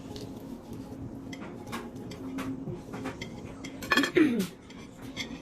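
Cutlery and dishes clinking in scattered, irregular clicks as people eat, with a short falling voice sound about four seconds in.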